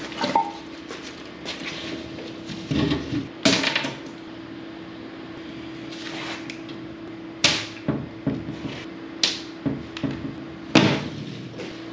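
Irregular sharp knocks and clatters of wooden pieces and hand tools being handled during carpentry, about a dozen over the stretch, loudest near the middle and near the end, over a steady low hum.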